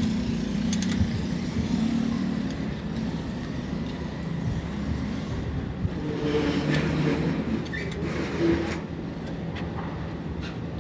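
A motor vehicle's engine running steadily, swelling louder for a few seconds past the middle.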